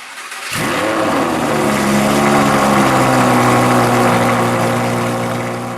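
BMW 640i's turbocharged straight-six cold-starting through a custom exhaust with its valves open: it catches about half a second in, its revs rise in a start-up flare over about a second, then it holds a steady, very loud fast idle.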